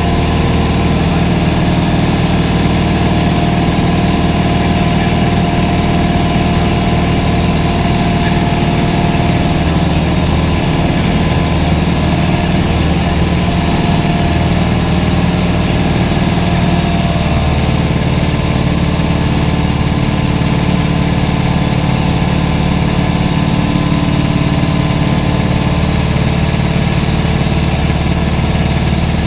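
Propeller aircraft engine droning steadily in flight, a loud, even hum made of several steady tones; about 17 seconds in the tones shift to a slightly different set, as with a change in engine power or propeller setting.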